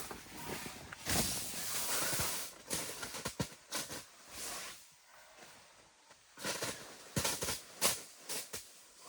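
Rustling and soft thumps of a carpet being unrolled and laid out on a tent floor, in irregular bursts with a short lull in the middle.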